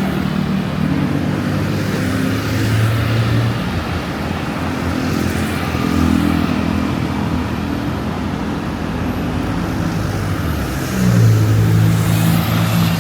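Street traffic: the engines of vehicles running close by, a steady low hum, with a louder engine note starting about eleven seconds in.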